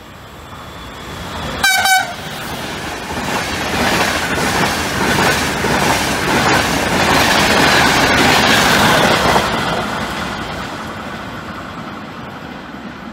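A locomotive-hauled passenger train gives a short horn blast about two seconds in, then runs past. The rush of wheels and coaches, with clicks from the rail joints, builds, is loudest around eight to nine seconds, and then fades away.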